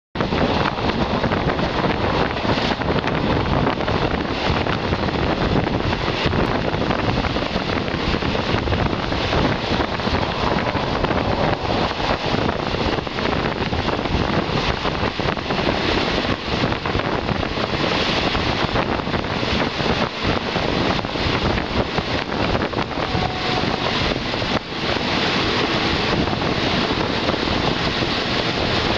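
Passenger train 258 running on the rails: a loud, steady rumble and rush that goes on without a break, with wind noise on the microphone.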